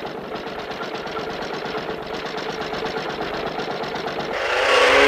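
Cartoon sound effect of a small car engine: a rapid, even mechanical rattle, then about four seconds in a loud rising rush with a rising whine as the engine revs up to pull away.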